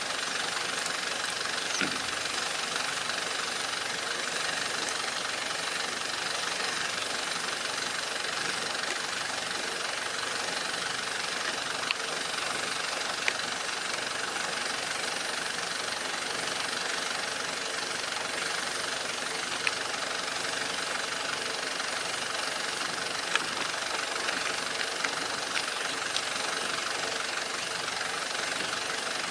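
Remote-control model excavator running steadily, with a few short sharp clicks scattered through it.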